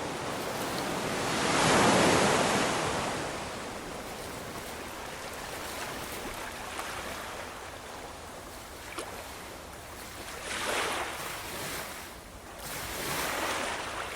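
Ocean waves breaking and washing ashore, with a big surge swelling and falling away about two seconds in and two smaller ones near the end.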